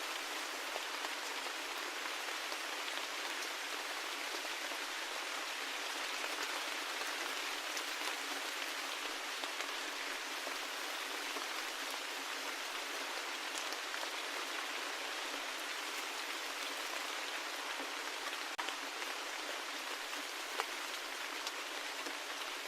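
Steady rain falling: an even hiss with scattered individual drop ticks, a couple of them slightly louder near the end.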